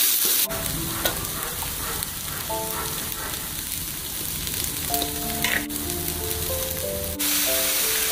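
Grated coconut and chili paste sizzling in a wok as a wooden spatula stirs them, over light background music. The sizzle changes abruptly about half a second in and again near the end.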